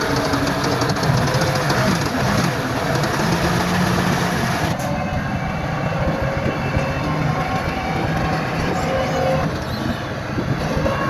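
Diesel engine of heavy earthmoving machinery running with a steady metallic clatter, typical of a crawler bulldozer's steel tracks. About five seconds in the sound changes abruptly and the high hiss drops away.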